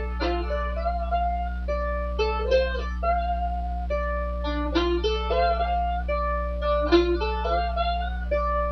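Mandolin played with a slide: a blues lick of picked notes going back and forth between strings, some notes slid into, over a steady low electrical hum.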